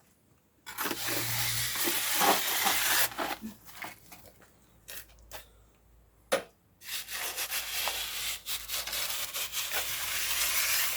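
Gritty sand-and-cement mortar being scraped and worked with a tool, in two long stretches of rough scraping with light clicks between them and one sharp knock in the middle.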